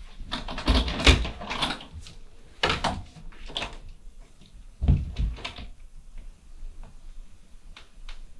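A series of knocks and thuds: a cluster about a second in, two more around three seconds, and a heavier thud about five seconds in, then only faint ticks.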